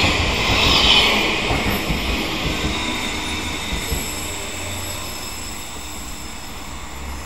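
Odakyu 3000 series electric train passing at close range, with a high hiss of wheels on rail that fades as the cars go by. A low rumble grows in the second half.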